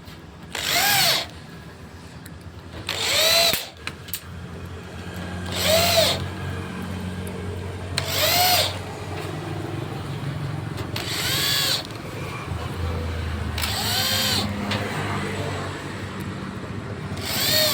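Power drill run in seven short bursts of about half a second, each rising and then falling in pitch, with a low steady hum between bursts.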